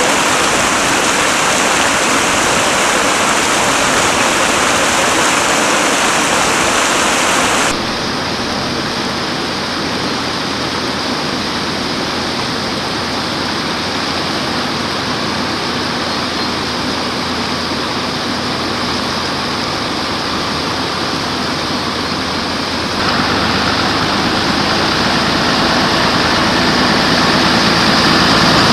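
Floodwater rushing steadily, heard in three stretches that change abruptly in level. In the last few seconds the low, even hum of an engine idling comes in underneath.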